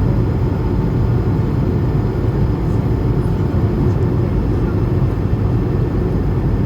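Steady low cabin noise of an Airbus A220-300 airliner: its Pratt & Whitney geared turbofans and the airflow heard from inside the passenger cabin. A faint steady tone runs along with it and fades out about halfway through.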